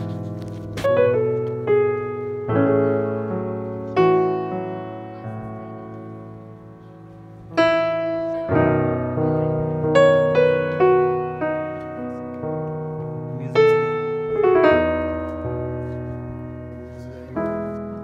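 Background music: slow solo piano playing sustained chords and single notes that ring and fade.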